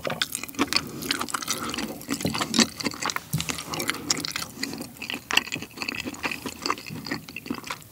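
Close-miked chewing of a mouthful of cheesy, sauce-coated songpyeon rabokki: many short, wet, sticky mouth clicks.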